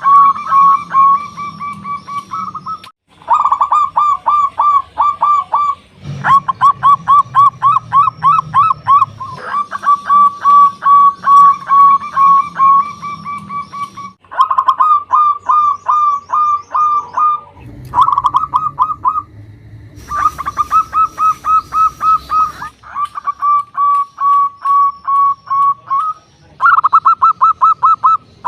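Zebra dove (local perkutut) cooing: long phrases of rapid, rhythmic coo notes, one after another with short pauses between them.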